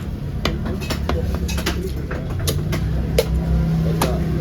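Irregular sharp knocks and clinks of a knife cutting fish on a block, over a steady low hum.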